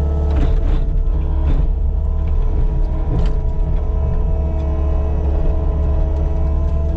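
Caterpillar 299D2 compact track loader's diesel engine running steadily at working speed, with a deep rumble and a steady whine. A few brief clatters come in the first few seconds.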